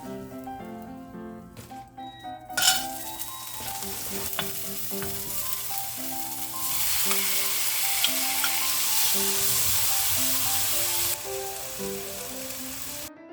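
Food sizzling in a hot frying pan. The sizzle starts suddenly about two and a half seconds in, grows louder through the middle and eases near the end, over soft background music.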